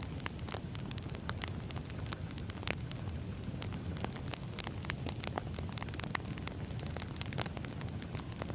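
Crackling wood fire: burning firewood with a steady low rumble of flames and frequent irregular sharp pops and crackles.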